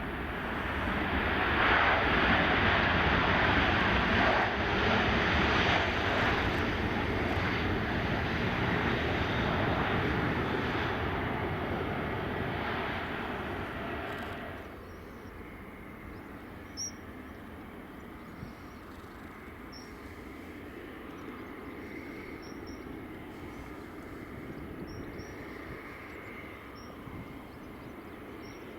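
Jet aircraft engines at close range, a loud steady rush that swells in the first two seconds and holds for about fourteen seconds before dropping off abruptly. After that comes quieter, distant airport engine noise with a few faint short chirps.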